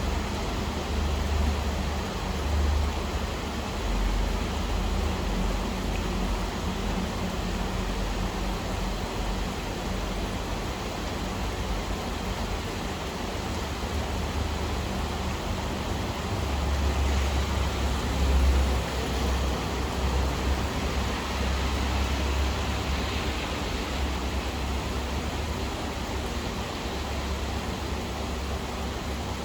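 Steady rain falling, an even hiss, with a low rumble underneath that swells and fades, loudest a little past the middle.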